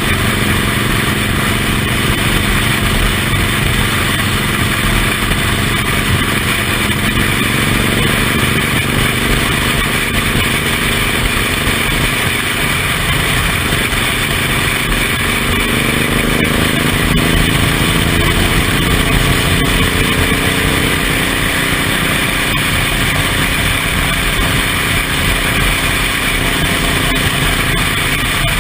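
Suzuki Intruder M1800R's big V-twin engine running on the road under a steady rush of wind and road noise. Around the middle the engine note climbs for several seconds as the bike picks up speed.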